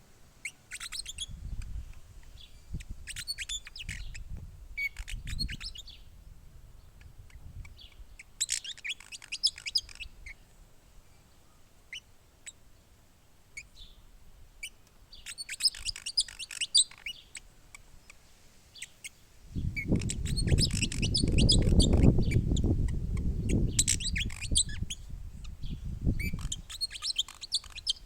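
Small birds chirping and twittering in short bursts every couple of seconds. About two-thirds of the way in, a low rumble lasting several seconds becomes the loudest sound.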